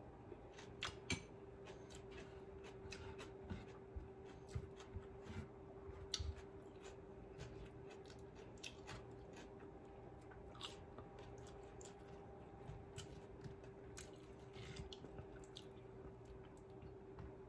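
Faint chewing and wet mouth clicks of a person eating, scattered irregularly, over a steady low hum.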